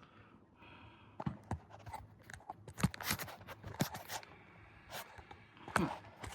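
Wrench clinking and scraping on metal hydraulic line fittings: a string of irregular sharp clicks and knocks as the fittings are worked.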